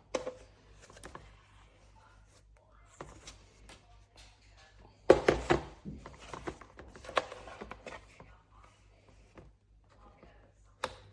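Handling knocks and clicks from a portable electric fan heater being set up: scattered taps, a loud cluster of thumps about five seconds in, and a sharp click near the end, over a low steady hum.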